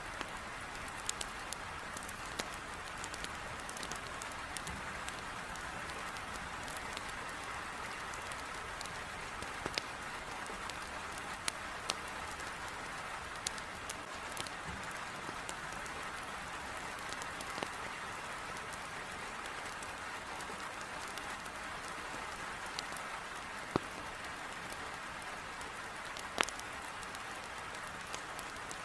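Heavy rain beating on a window in a steady hiss, with scattered sharp crackles and pops of a burning wood fire in a fireplace.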